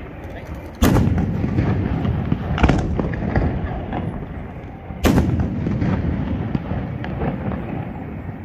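Aerial firework shells bursting overhead: two loud booms, about a second in and about five seconds in, each followed by a long rolling rumble, with smaller bangs in between.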